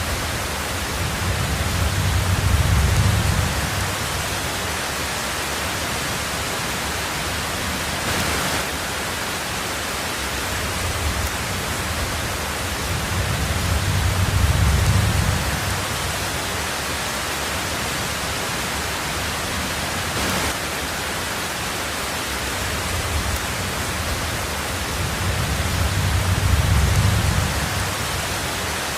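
Heavy rain on a tin roof, a steady even hiss, with a low rumble of thunder swelling and fading three times, about every twelve seconds.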